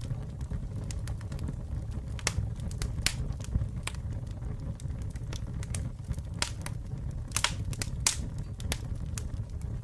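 Wood campfire burning: a steady low rumble of flames with irregular sharp crackles and pops of burning wood, a few louder snaps scattered through.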